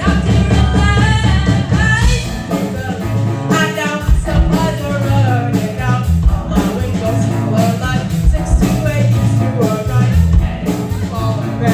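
Live rock band playing a song: a female lead singer over electric guitar, bass and drums.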